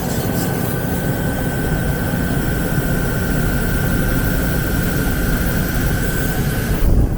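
Wheel lathe cutting a wheel: a steady machine drone with a thin, steady high whine from the cut that stops near the end.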